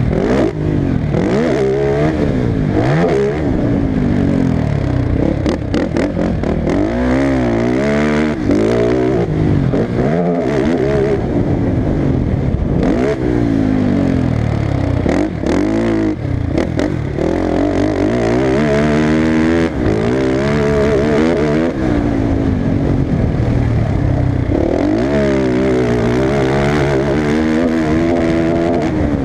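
Off-road motocross engine revving hard and dropping back again and again as the rider shifts and throttles around the track. The pitch climbs and falls every second or two, with short clattering knocks here and there.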